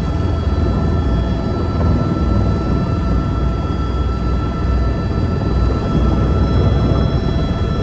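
Helicopter in flight, a loud steady drone of rotor and engine with a few thin steady high tones over it.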